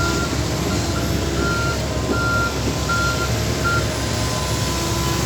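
Vehicle reversing alarm: a short high beep repeating about once every 0.7 s, stopping a little before four seconds in, over the steady low rumble of a running engine.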